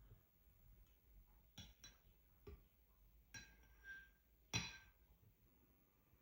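Light clinks of dishes or glassware, five or six short knocks, the loudest about four and a half seconds in with a brief ring.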